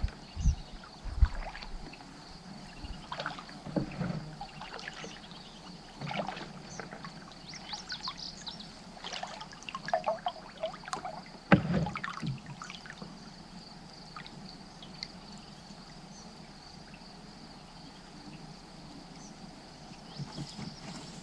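Kayak paddling: irregular splashes and dripping as the paddle blades dip and lift out of the water, with a few sharp knocks mixed in, mostly in the first half. It grows calmer for several seconds before a few more strokes near the end.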